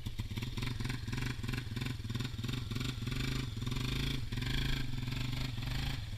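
Off-road vehicle engine running hard and revving in rapid, uneven pulses as it bogs down in deep mud at the creek crossing.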